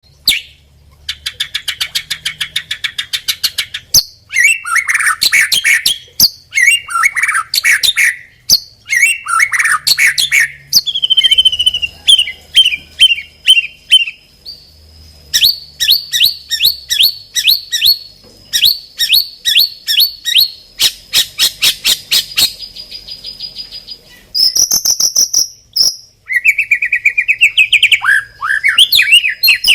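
White-rumped shama (murai batu) singing a long, varied song, pouring out its full repertoire: fast rattling trills, chattering runs and clear whistled phrases, with short pauses between bouts. A thin, steady high tone sounds behind it at times.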